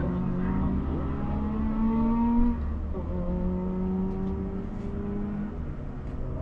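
Car engine accelerating, its pitch rising, then dropping suddenly about two and a half seconds in as it shifts up a gear, and rising again more slowly.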